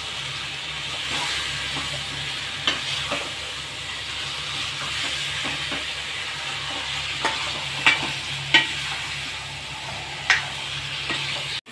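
Raw chicken pieces frying in oily tomato masala in a kadai: a steady sizzle while a metal spoon stirs and turns them, with a handful of sharp clicks and scrapes of the spoon against the pan.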